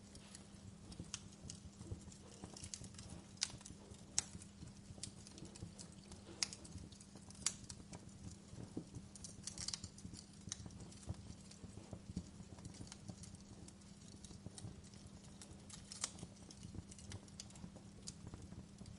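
Wood fire in a fireplace crackling: irregular sharp clicks and a few louder snaps scattered through, over a low steady rumble of the flames.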